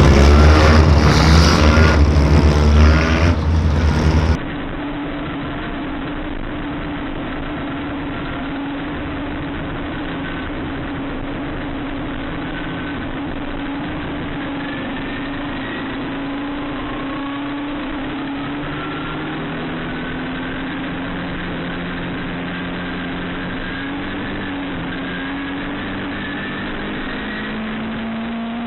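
Background music for about the first four seconds, then a sudden cut to midget race car engines running on track, steady in level, their pitch rising and falling slowly as the cars circle.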